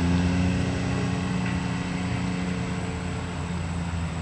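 Engine running at a steady low pitch, slowly getting quieter.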